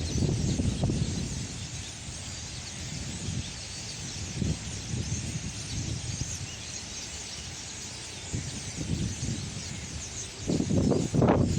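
A large flock of birds massed in trees, many overlapping calls forming a continuous chattering chorus. Low rumbling bursts come in near the end.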